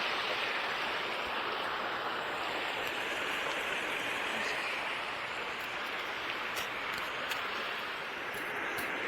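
Creek water rushing steadily over rock near a waterfall, an even hiss with no breaks.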